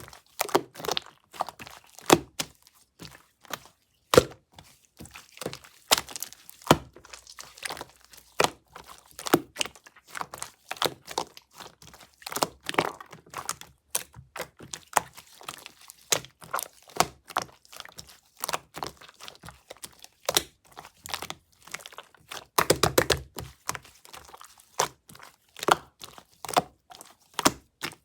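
Slime being squeezed and worked, making a rapid, irregular run of sharp crackling pops and clicks.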